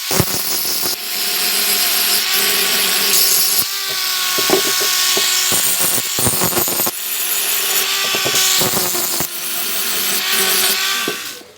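A power tool working wood: a motor's steady whine under loud cutting noise, in several stretches that change abruptly about every three seconds.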